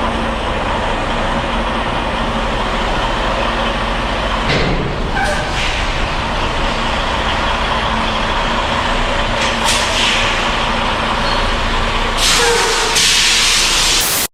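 Semi-truck running steadily, with short bursts of air hiss from the air brakes and one longer, loud hiss near the end as the truck is set in place.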